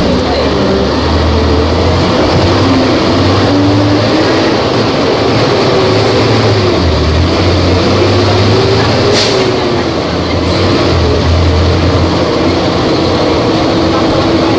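Volvo B270F bus engine running, its pitch rising and falling as the engine speed changes.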